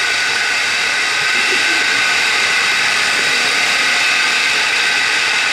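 Loud, steady hiss of rushing air that starts abruptly and holds level throughout, strongest in the upper range with almost no low rumble.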